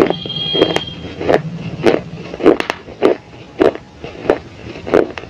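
Close-miked chewing of a hard, brittle substance: loud crisp crunches, about one every half second or so, each bite crackling sharply, picked up by a wired earphone microphone held at the mouth.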